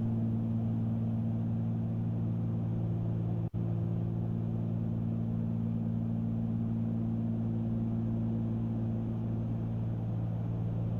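Steady cruise drone of a Cessna 310Q's two six-cylinder Continental piston engines and propellers, heard in the cabin as a constant low hum, with a split-second cut-out in the audio about three and a half seconds in.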